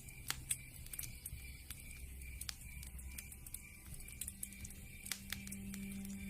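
Wood fire crackling with scattered sharp pops, over soft ambient music with long held tones. A low held note comes in a little past the halfway point.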